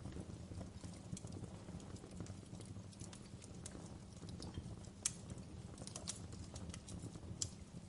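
Wood fire crackling in a fireplace: a steady low rumble of the flames under scattered small crackles, with a sharper pop about five seconds in and another near the end.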